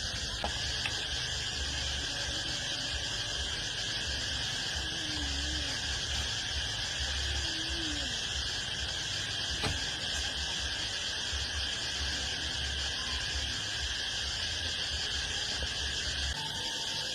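Steady insect chorus, with a low rumble coming and going underneath and a single sharp click about ten seconds in.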